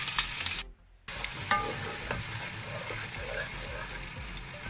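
Onion-tomato purée and ginger-garlic paste sizzling steadily in hot ghee in a pan while being stirred. The sound cuts out briefly just under a second in, then resumes.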